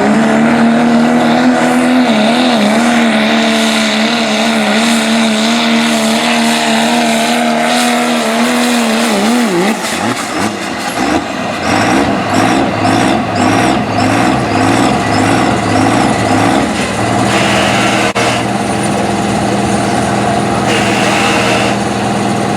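Diesel 4WD pulling truck's engine running loud at high, steady revs under load, wavering slightly. It drops off about nine to ten seconds in, then runs unevenly before settling to a lower steady note.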